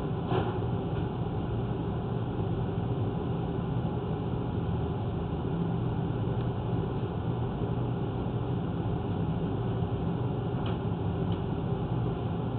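Steady low mechanical hum, with a faint click about half a second in and another near the end.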